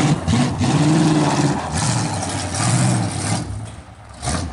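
Oldsmobile bomber race car's engine revving up and down under load, loud and rough, then dropping away sharply about three and a half seconds in.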